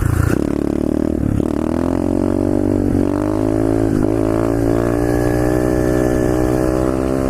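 125cc SSR pit bike's single-cylinder engine revving hard under acceleration during wheelie practice. The revs dip briefly about a second in and again around four seconds in, then climb steadily again.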